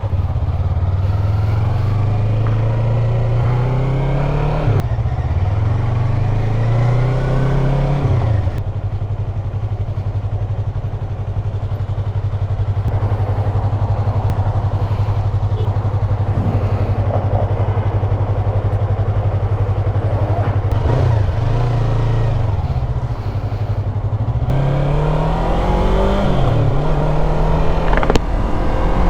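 Yamaha MT-03 motorcycle engine pulling away and accelerating, its pitch rising through the gears with shifts about five and eight seconds in. It then runs at a steady cruise, and near the end it eases off and picks up speed again.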